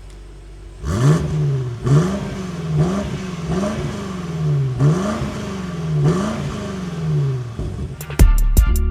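BMW F90 M5 twin-turbo V8 free-revving through a stainless or titanium Yonristic catback exhaust: about six quick blips, each rising sharply in pitch and falling back. Music comes in near the end.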